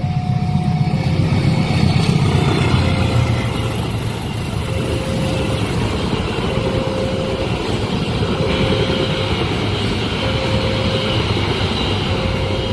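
A train running past a level crossing: a loud, steady rumble of wheels and cars, loudest a couple of seconds in. Over it the crossing's warning signal keeps sounding a short repeated tone about every second and a half, with faint high-pitched squealing from the wheels later on.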